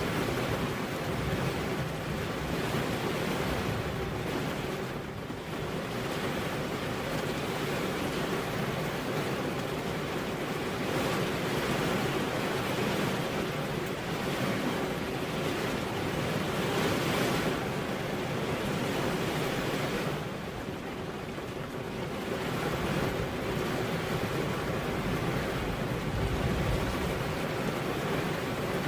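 Steady heavy rain, a dense hiss that eases a little a few seconds in and again about two-thirds of the way through.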